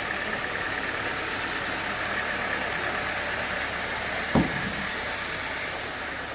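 Sawmill machinery running steadily with a constant high whine, and one heavy thump about four and a half seconds in.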